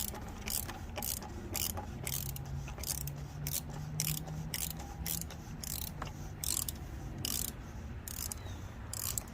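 Socket ratchet clicking in short repeated strokes, about two a second, as it loosens a fastener on the Dodge Charger's 3.6 L V6. The fastener is most likely the cartridge oil filter housing cap.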